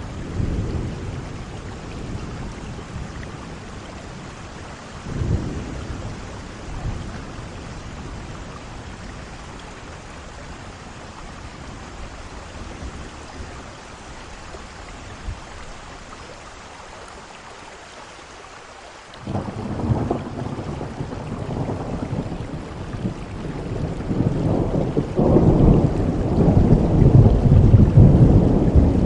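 Thunderstorm: steady heavy rain with rolling thunder. Low rumbles come near the start and again around five seconds in. After a quieter stretch, a sudden thunderclap about two-thirds of the way through rolls into longer, louder rumbling that peaks near the end.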